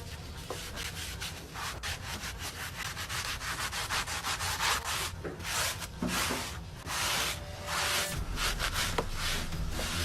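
Rough scraping strokes repeated in a quick, irregular series.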